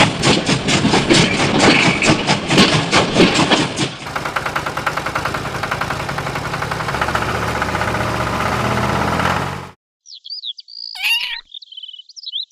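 Music with a steady beat, then an engine running steadily, its pitch stepping up partway through, until it cuts off suddenly; after a short silence, high sweeping chirps.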